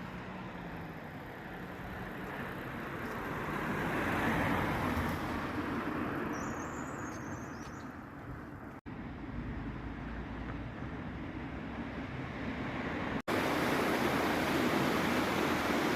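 Mountain stream water rushing in a steady noisy wash, heard in three cut-together stretches; the last, starting about 13 seconds in, is louder. A brief high chirp comes about six and a half seconds in.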